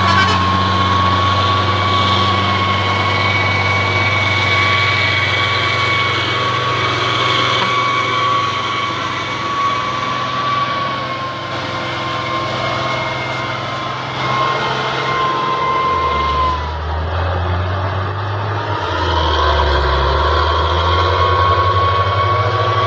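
Heavy diesel truck engine running steadily with a high whine over it. About two-thirds of the way through, the whine drops off and the engine note shifts lower, then the whine comes back.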